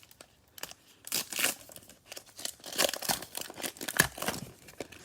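Cellophane wrapper of a Mosaic football cello pack being torn open and crinkled, in bursts of crackling at about one, three and four seconds in.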